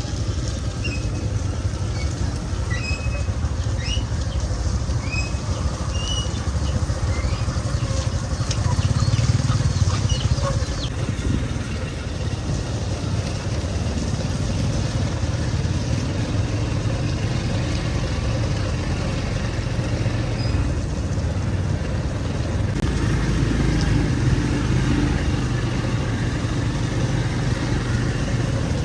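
A motor vehicle running, a steady low rumble, with a few short high chirps and clicks in the first ten seconds or so.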